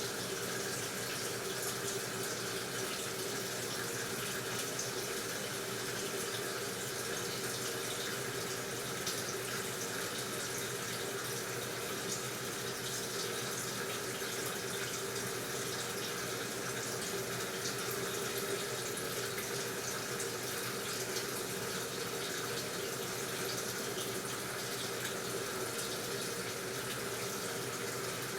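Water running steadily into the tub of an AQUA washing machine, with a steady hum under it.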